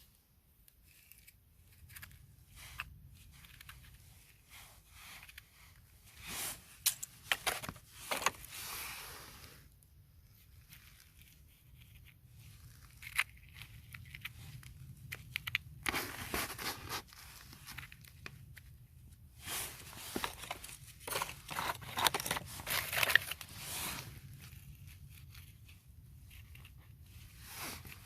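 Close-up crackling, tearing and crunching in irregular bursts, as of material being torn and crumpled by hand. The bursts cluster about six seconds in and again around sixteen seconds, and are busiest from about twenty to twenty-four seconds.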